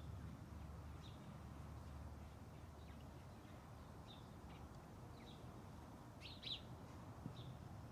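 A small bird chirps faintly over low outdoor rumble: short high notes roughly once a second, with two louder chirps about six and a half seconds in.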